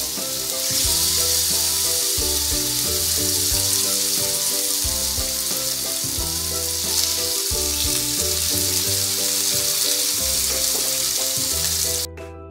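Seasoned chicken breasts sizzling as they fry in hot oil in a pan over medium-high heat, a dense steady hiss. Background music plays underneath, and the sizzle cuts off abruptly near the end.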